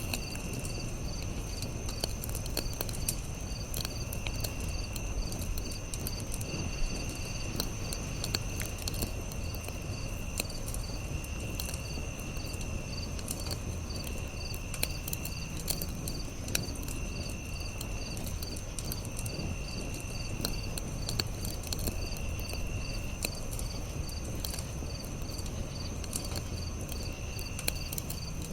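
Campfire crackling with scattered pops over a low steady rumble, with crickets chirping steadily in the background and another insect trilling in repeated bursts of a second or two.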